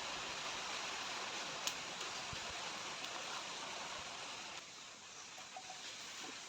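A steady rushing noise, easing slightly about four and a half seconds in, with one sharp click near the two-second mark.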